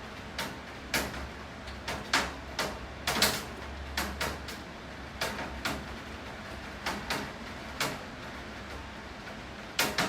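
Steady rain falling, with about a dozen loud, sharp taps at irregular intervals, like heavy drops striking a hard surface close by.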